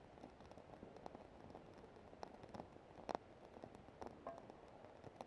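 Wood campfire crackling faintly, with irregular sharp pops, the loudest about three seconds in.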